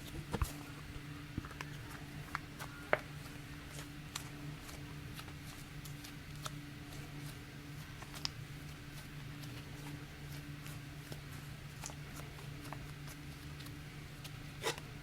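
Scattered light clicks and taps as a slime and its container are handled and put away, over a steady low hum.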